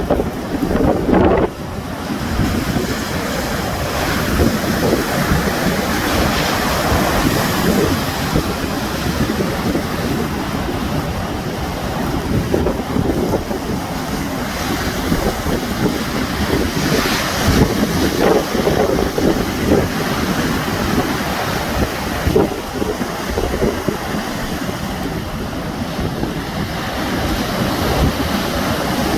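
Sea waves breaking and washing on the shore, with wind buffeting the microphone.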